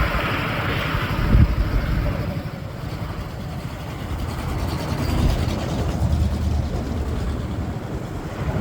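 Motorcycle on the move: engine running under a steady, gusty low rumble.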